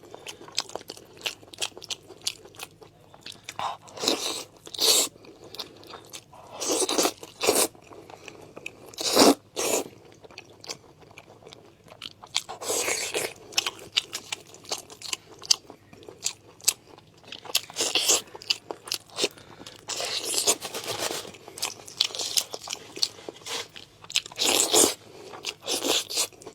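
Close-miked chewing and biting of braised pork knuckle skin and tendon, with many irregular sharp clicks and short bursts.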